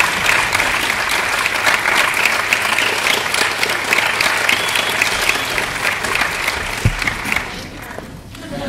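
Classroom audience applauding, many hands clapping at once, dying away near the end.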